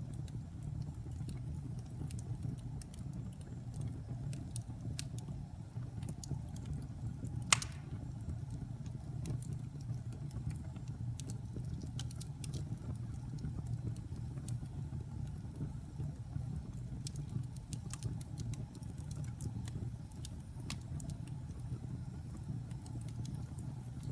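Wood fire burning in a fireplace: a low steady rumble with scattered crackles and one sharp, louder pop about a third of the way in.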